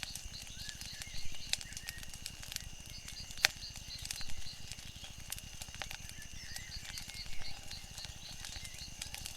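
Wood fire crackling with frequent small pops and one louder pop about three and a half seconds in, over a low rumble. Faint repeated high chirping runs behind it.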